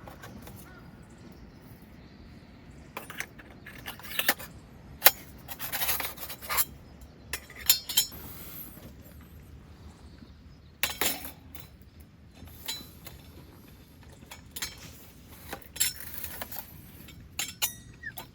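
Irregular clinks and clatters of small metal and glass items being handled, in scattered clusters over a low steady background.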